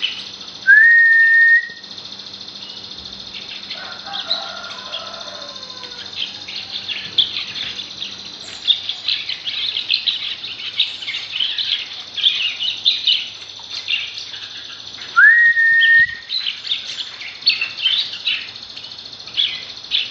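Small birds chirping in quick, high notes, busiest in the second half. Twice, near the start and about fifteen seconds in, a loud whistle rises and is then held steady for about a second.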